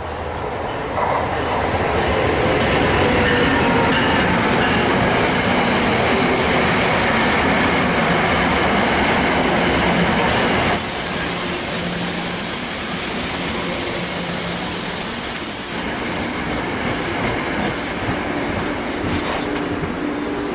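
A train passing through the station: a loud, steady rumble of wheels on rail that builds about a second in. About halfway through, a bright hiss joins suddenly and drops away a few seconds later.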